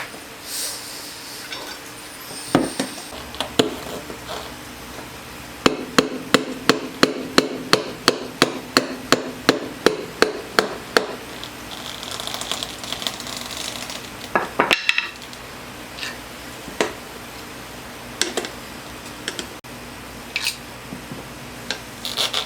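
A rapid run of hammer blows, about three a second for some five seconds, with scattered single knocks before and after: hammering on a go-kart tire to break its bead loose from the rim.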